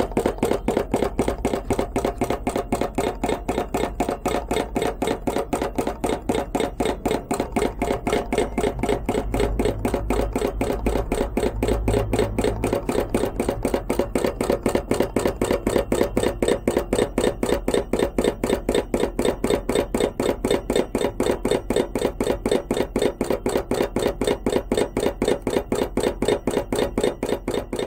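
Home-made hot-air (Stirling) engine built from a converted air pump, running steadily with a quick, even clacking beat.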